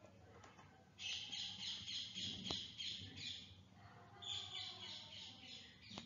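Bird chirping: rapid series of high, falling chirps, with a short break about two-thirds of the way through.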